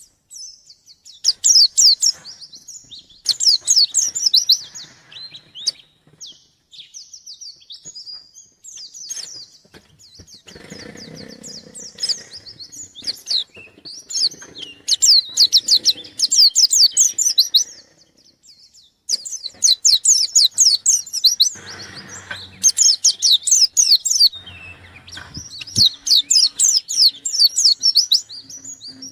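White-eye (pleci) singing vigorously in rapid bursts of high, fast chirps, each phrase lasting a second or two with short pauses between; the energetic challenge song of a bird seeking a rival.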